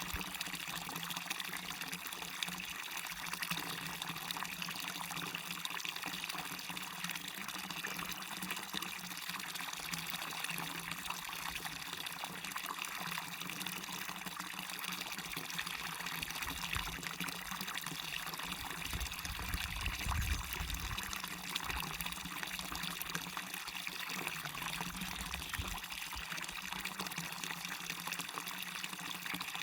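Small waterfall with water running steadily over it, an even rushing splash with a brief low rumble about two-thirds of the way through.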